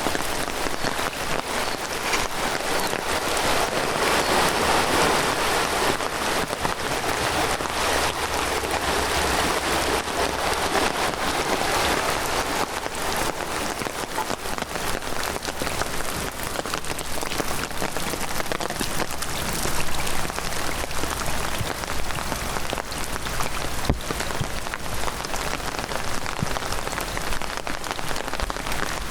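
Heavy rain falling steadily, a dense patter of many drops hitting surfaces close by.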